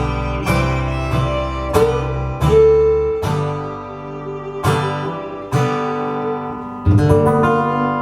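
Live folk band playing the instrumental closing bars of a song without singing, led by acoustic guitar strumming chords that ring out between strokes.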